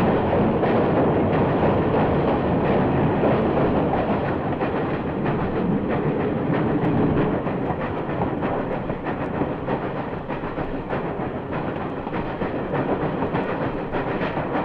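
Steam locomotive running, a dense continuous rush of exhaust and rolling noise with faint clicks, dipping slightly in loudness midway. It is a 1956 mono field recording with a dull top end.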